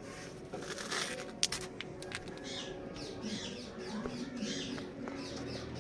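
Caged Indian ringneck parakeets giving a run of short, high squeaky chirps. About a second in there is a brief rustle, followed by a sharp click, the loudest sound in the stretch.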